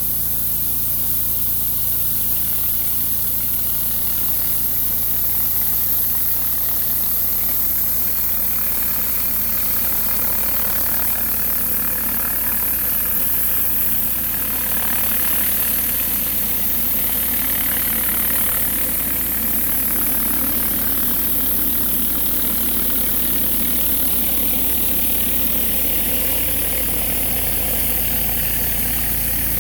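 Pressure washer running steadily: its engine hums underneath the even hiss of the high-pressure water spray hitting the driveway.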